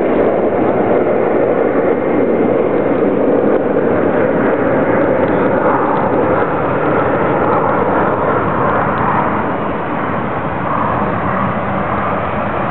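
Boeing 747-400's four jet engines at takeoff thrust: loud, steady jet noise, easing slightly partway through, with a faint rising whine near the end.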